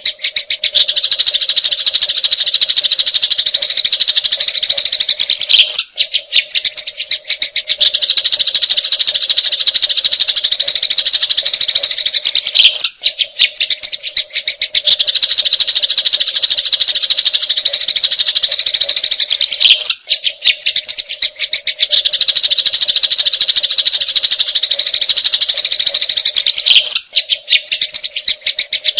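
Sparrows' fast, rattling fighting chatter, dense and continuous, in a repeating track that breaks off briefly about every seven seconds. A steady low hum runs underneath.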